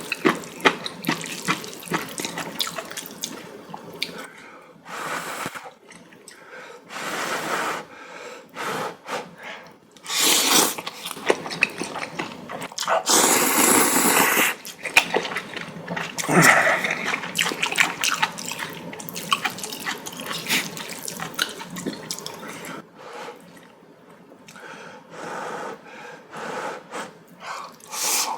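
A person slurping noodles and hot broth and chewing, close to the microphone, in a string of irregular wet slurps; the longest and loudest slurps come about ten and thirteen seconds in.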